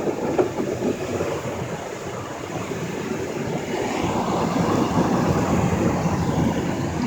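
Ryko SoftGloss XS automatic car wash working through its first wash pass on a car, a steady rushing wash noise that grows louder about four seconds in.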